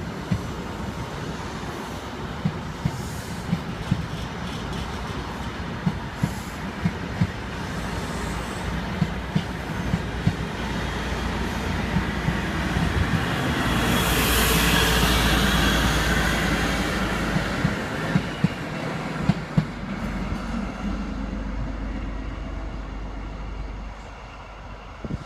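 High Speed Train (InterCity 125) pulling away, its Class 43 diesel power car engine running under power and the wheels clicking sharply over rail joints all the way through. The sound builds to its loudest about halfway through as a power car passes, then dies away near the end.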